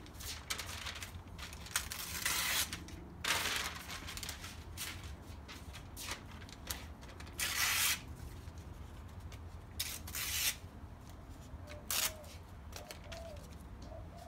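Newspaper rustling and tearing in several short bursts.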